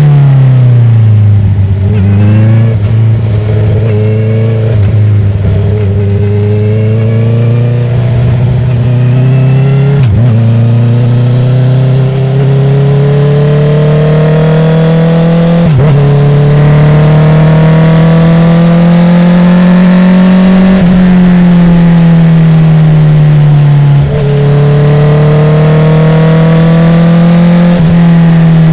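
2019 Honda CB650R inline-four through a full Akrapovic titanium exhaust with the dB killer out, ridden at speed. The engine note drops as the throttle closes at the start, then climbs slowly under acceleration, with short sharp cracks at gear changes about ten, sixteen and twenty-four seconds in. The pitch falls again just before the last of these.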